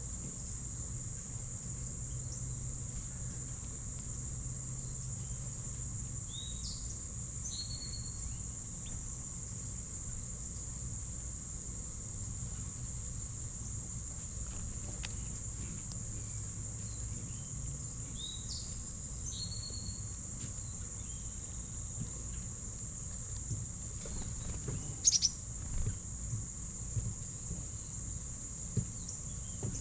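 Insects trilling steadily at a high pitch, with a bird giving a short rising call twice. Near the end, a cluster of sharp taps and knocks.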